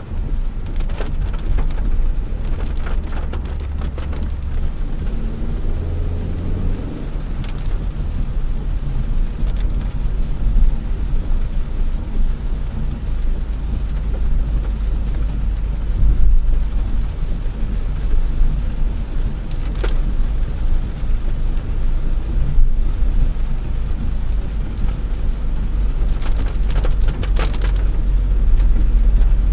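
Heavy rain on a moving Honda Elevate, an even hiss with scattered sharp ticks of drops hitting, over the steady low rumble of the car driving on a wet road.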